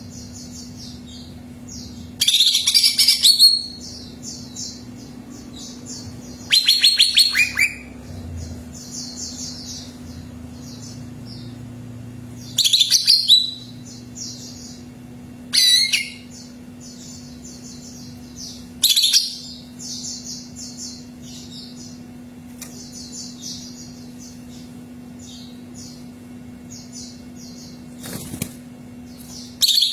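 Cucak ijo (green leafbird) singing: loud bursts of varied whistled and chattering phrases every few seconds, with a softer fast twittering in between. A steady low hum runs underneath.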